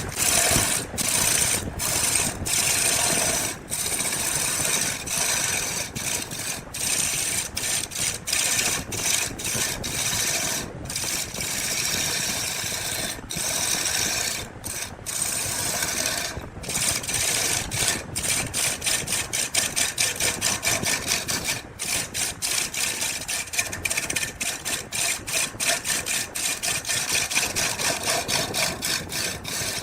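A hand tool working wood in repeated back-and-forth scraping strokes, about one a second at first, quickening to a steady two or three a second in the second half.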